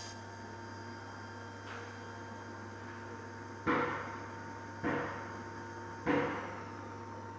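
Three sharp knocks, a bit over a second apart, each dying away quickly, over a steady low hum.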